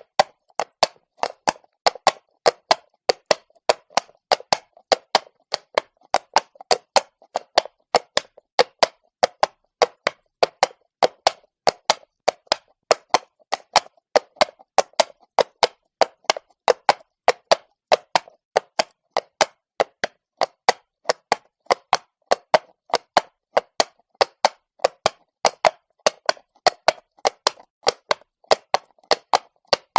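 A horse's hooves clopping on cobblestones at a walk: a steady, even rhythm of sharp hoof strikes, about three a second.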